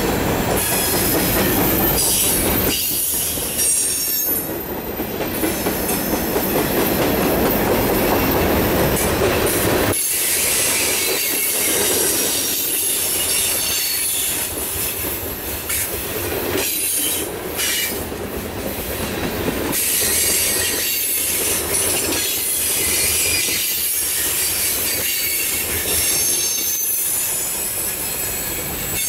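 Freight cars of a mixed freight train rolling past: steel wheels running on rail with a steady rolling noise, high wheel squeal that comes and goes, and scattered clicks of wheels over rail joints.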